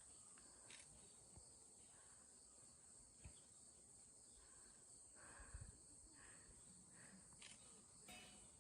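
Faint, steady chirring of insects, with a few soft knocks.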